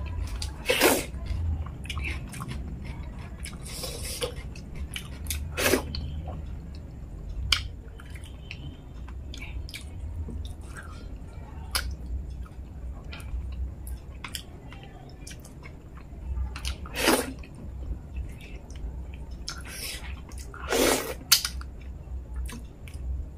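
Close-miked wet chewing and mouth smacks of wheat dhido and fish head curry eaten by hand, with many small clicks and four louder wet smacks spread through.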